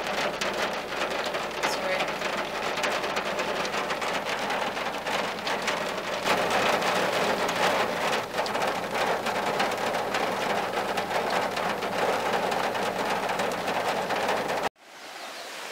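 Heavy rain pelting a car's windshield and roof, heard from inside the car: a dense, steady patter of drops that cuts off suddenly near the end.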